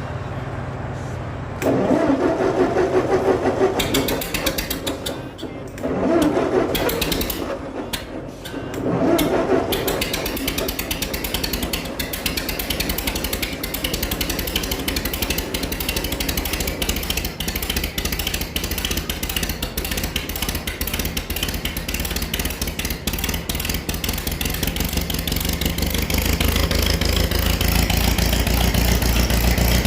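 1948 Ford 8N tractor's four-cylinder flathead engine on a cold start: the starter cranks it in three bursts before it catches about ten seconds in. It then runs with a steady, even beat, getting louder in the last few seconds.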